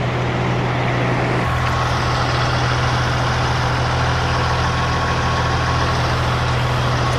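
Heavy diesel truck engine idling steadily, a low even hum that grows fuller about a second and a half in.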